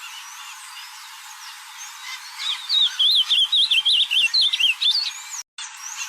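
Ultramarine grosbeak (azulão) singing one loud, rapid warbling phrase of about two and a half seconds, starting a couple of seconds in, over faint scattered chirps of other birds.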